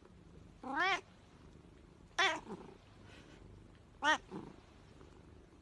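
A kitten meowing: three short meows, each roughly one and a half to two seconds after the last.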